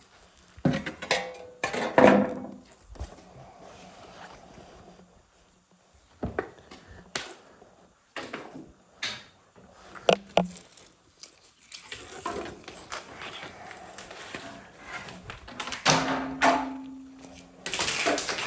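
Irregular knocks, thunks and clatter of tools and wood being handled, with softer rustling between them.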